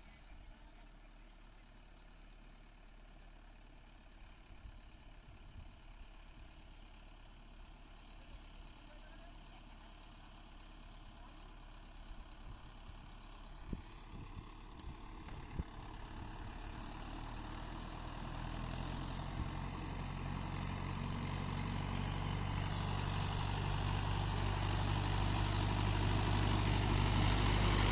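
Mahindra Yuvo Tech Plus 475 DI tractor's diesel engine pulling a loaded trolley, growing steadily louder throughout, with its engine note standing out plainly in the last third. A few sharp clicks come about halfway through.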